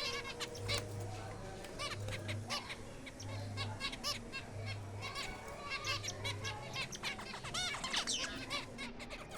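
A flock of small aviary finches chirping continuously, many short, high calls overlapping. A low hum pulses on and off about once a second underneath.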